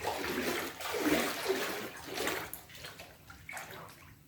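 Floodwater sloshing and splashing in a flooded house, in uneven surges that die down near the end.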